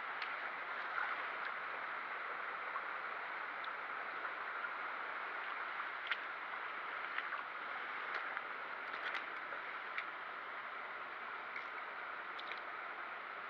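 Steady rush of flowing stream water, with a few faint clicks scattered through it.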